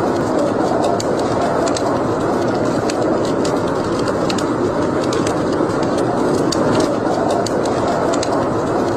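Wood fire burning in a fireplace: a steady rush of flames with frequent sharp crackles and pops at irregular intervals.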